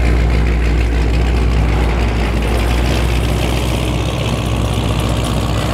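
Black SRT's engine idling as it rolls slowly past, a steady deep rumble.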